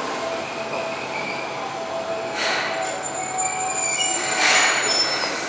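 Seibu N2000 series electric train at the platform, its wheels and brakes squealing in several thin high tones over a steady running rumble, with two short hisses about 2.5 and 4.5 seconds in.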